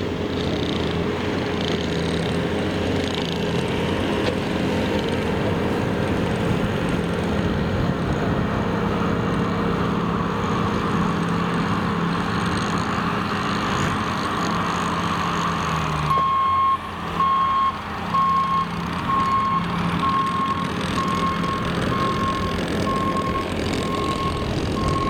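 Snow-plow truck's engine running steadily. About two-thirds of the way through, its back-up alarm starts beeping, one even tone repeating at a steady pace as the truck reverses.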